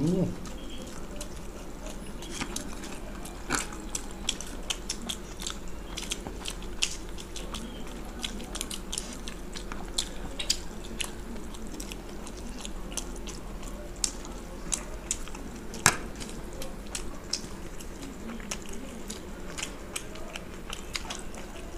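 Two people biting and chewing steamed chicken momos close to a table microphone, with wet mouth clicks and smacks at irregular intervals.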